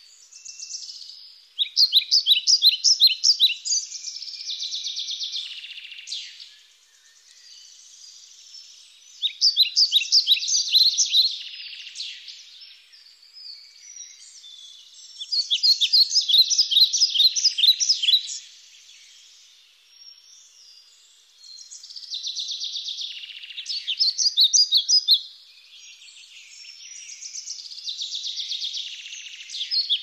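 Birds chirping: bursts of rapid, high-pitched notes that recur about every six to seven seconds, with softer chirping in between.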